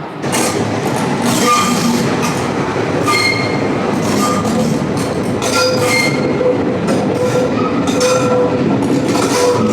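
GoldenPass Belle Époque train running on the rails, its wheels squealing in short high tones over a steady rumble and repeated rattling from the carriage. The noise gets suddenly louder about a third of a second in.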